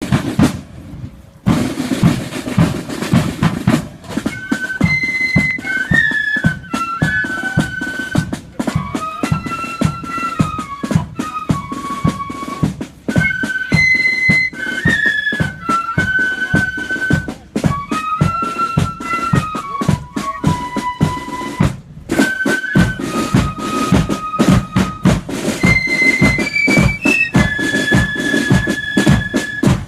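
Marching flute band playing: a high flute melody over a driving beat of snare and bass drums. The drums start about a second and a half in, and the flutes join a few seconds later.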